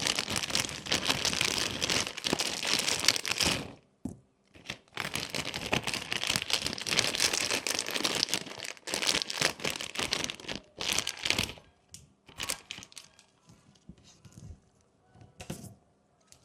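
Packaging being crinkled and torn open: two long stretches of dense crackling with a short pause about four seconds in. From about eleven seconds on there are only scattered light clicks and rustles.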